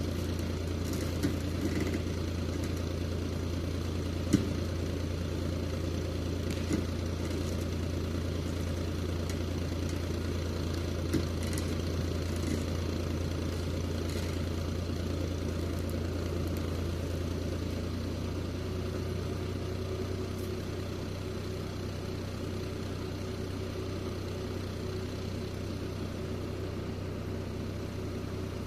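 Steyr 540 tractor's diesel engine running steadily, with a few sharp knocks in the first half. The engine note drops a little in loudness about two-thirds of the way in.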